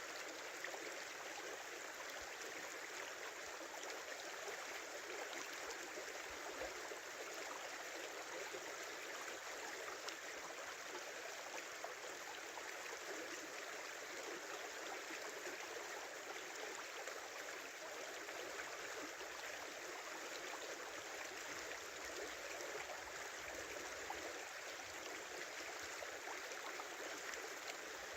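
A small river's water flowing steadily over stones, an even rushing and gurgling with no breaks.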